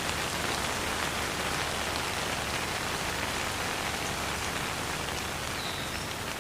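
Steady rain falling and pattering on surfaces, a dense even hiss with no thunder.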